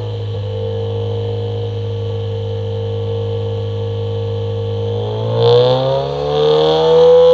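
2015 Subaru WRX's turbocharged 2.0-litre flat-four exhaust, through a non-resonated Remark 4-inch quad-exit catback and J-pipe. It holds a steady rev, then about five seconds in the revs climb, surge briefly, dip and settle higher.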